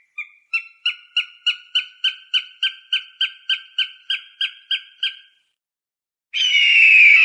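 Falcon calling: a rapid series of about sixteen short, sharp, evenly spaced notes, about three a second, for some five seconds. After a pause, a longer, harsh scream falling in pitch begins near the end.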